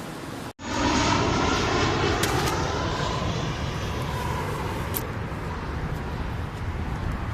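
Aircraft engine noise: a steady, loud rushing roar that starts abruptly after a brief cut about half a second in.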